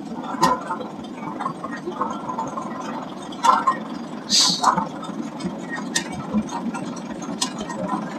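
Vintage tractor engine running steadily at low speed, with faint voices around it and a brief hiss about four and a half seconds in.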